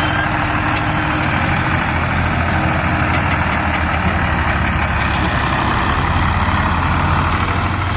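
Farm tractor engine running steadily at low revs while driving the hydraulic jack that tips the trolley to dump its load of soil.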